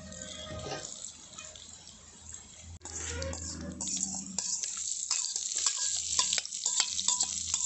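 Whole spice seeds and then sliced onions sizzling and crackling in hot oil in a clay pot, with dense sharp crackles that get louder about three seconds in.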